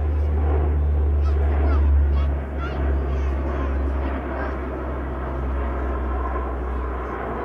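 Aircraft passing in flight: a deep engine drone swells to its loudest about two seconds in, then eases off a little and holds. Brief high honking calls sound over it in the first few seconds.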